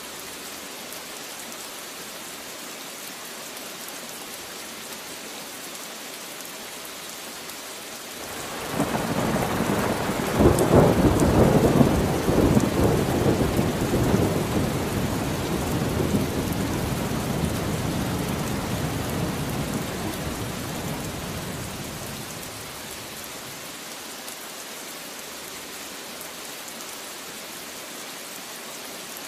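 Steady rain falling, with one long roll of thunder that breaks in about a third of the way through, peaks a few seconds later and rumbles away over about a dozen seconds.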